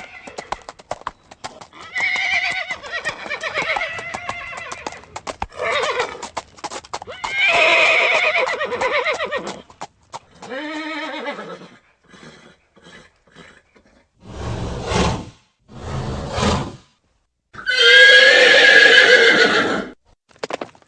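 Horse neighing several times in long wavering whinnies, with hoofbeats clip-clopping at the start and two short noisy blows about two-thirds of the way through.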